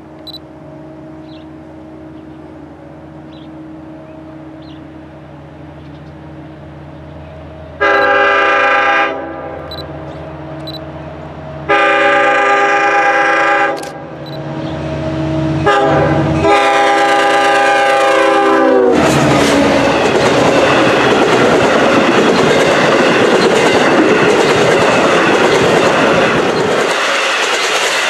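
A Long Island Rail Road DM30AC diesel locomotive drones steadily as it approaches, then sounds its air horn for the grade crossing: long, long, short, long. Its train of bi-level coaches then rushes past close by with a loud rattle of wheels on rail.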